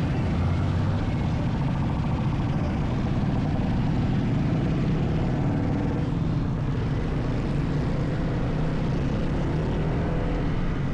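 Steady low vehicle rumble, strongest in the deep bass, with a faint pitched hum rising through it from about halfway in.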